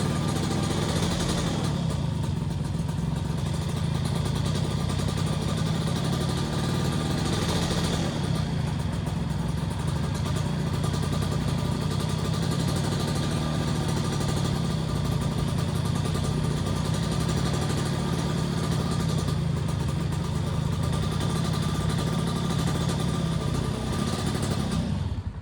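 Small motorcycle engine on a PWK28-type carburetor running at idle without any throttle input. Its revs drift up and down on their own, an unstable idle after a carburetor slide change. Secondary air was suspected, but spraying parts cleaner around the intake manifold made no difference. The sound cuts off abruptly near the end.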